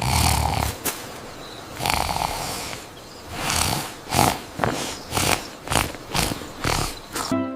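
A sleeping cartoon character snoring, as an animated sound effect. A few long snores are followed, from about halfway through, by shorter, quicker snores about twice a second.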